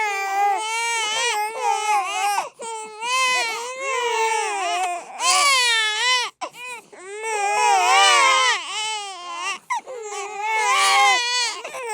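Several babies crying and wailing at once, high-pitched cries that overlap, with brief breaks for breath.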